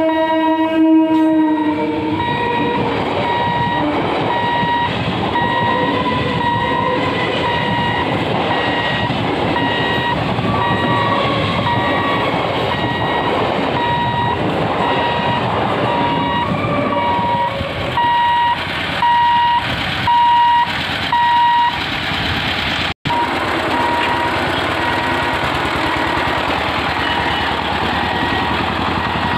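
An EMU electric local train passing a level crossing: its horn sounds until about two seconds in, then the coaches run past with a steady loud noise on the rails, under a regular electronic beeping from the crossing's warning signal. After a sudden break near the end, motorcycles and a three-wheeler cross with their engines running.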